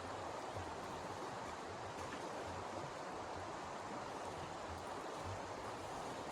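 Steady rushing noise with an uneven low rumble underneath, with no distinct events.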